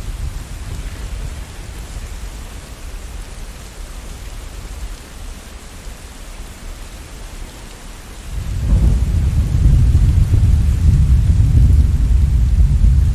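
Steady rain falling during a thunderstorm, with a deep roll of thunder swelling up about two thirds of the way in and rumbling on to the end.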